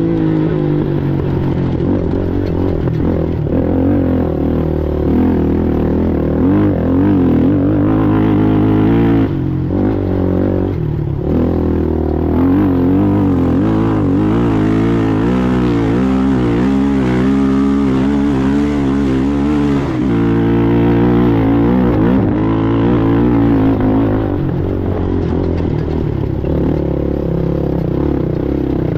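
Racing ATV engine running hard, its revs rising and falling continuously with throttle and gear changes, and easing off briefly a few times.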